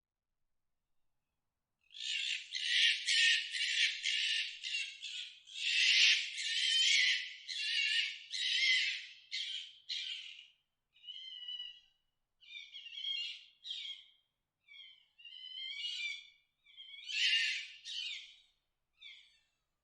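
A bird calling: a fast run of harsh, high calls lasting several seconds, then shorter separate calls that fall in pitch.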